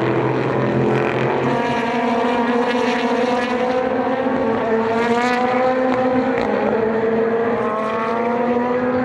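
Several Super GT race car engines running at high revs, their pitch climbing steadily as the cars accelerate, with more than one engine note overlapping.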